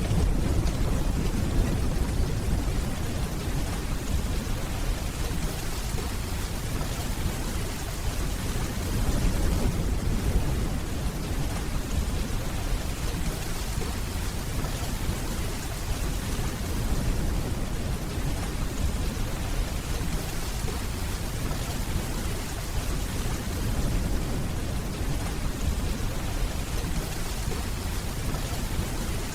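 Steady rainfall with a deep rumble of distant thunder underneath, swelling briefly about ten seconds in.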